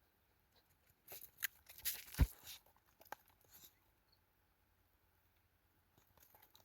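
Crackling and rustling handling noises. The loudest is one sharp thump about two seconds in, and a few faint clicks follow near the end.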